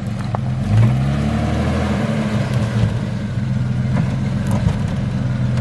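Engine of a stock Jeep Cherokee XJ rock crawling: the revs rise about a second in, then it runs steadily, with a few light knocks.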